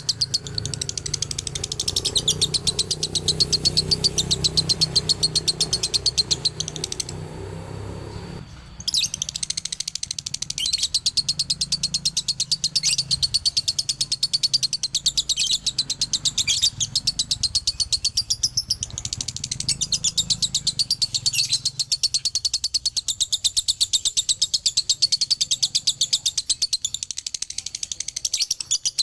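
Male lovebird's 'ngekek' song: a long, rapid run of shrill chirps. It breaks off briefly about seven seconds in, then resumes.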